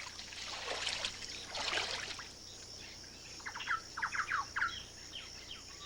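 Wild birds calling: a quick run of short, falling chirps in the second half, after two soft rushing swells of background noise.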